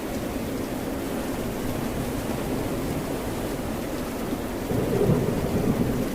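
Steady rain and ocean surf, with a louder low rumble swelling up about three-quarters of the way through and lasting a second or so.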